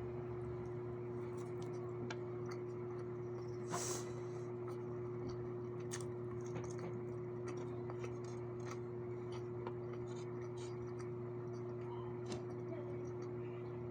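Eating sounds: scattered small clicks and taps, typical of cutlery on a plate while someone eats rice and pork steak, over a steady low hum. A brief louder scrape or rustle comes about four seconds in.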